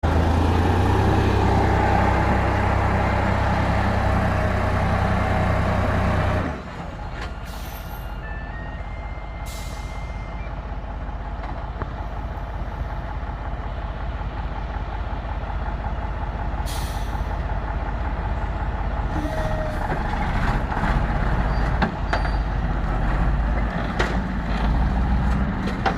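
MAZ four-wheel-drive truck's diesel engine running under load, loud with a deep hum, then dropping suddenly to a lower level about six and a half seconds in and slowly building again.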